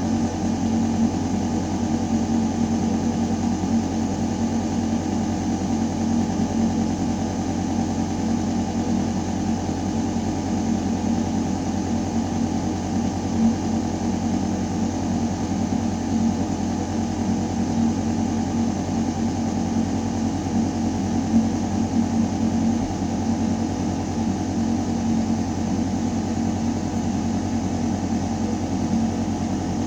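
Ventilation system in a building shaft running: a steady low hum of air moving through metal ducting, with a constant drone and no change.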